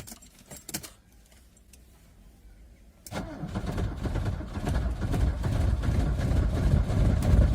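Diesel engine being cranked for a cold start in hard frost: after about three quiet seconds the starter kicks in and the engine churns roughly and unevenly, growing louder as it struggles to catch.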